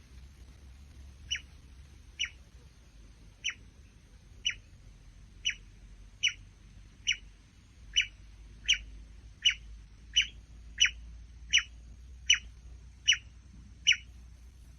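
A bird calling: a series of about sixteen short, downward-slurred whistled notes, one every second or less, getting louder as it goes. A faint steady high-pitched whine runs beneath.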